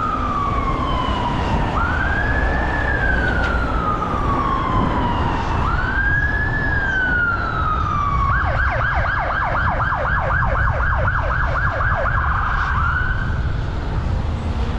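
Emergency vehicle siren sounding a slow wail that rises and falls about every four seconds, switching partway through to a fast yelp of about five sweeps a second for some four seconds before going back to the wail. Low rumble of wind and road noise runs underneath.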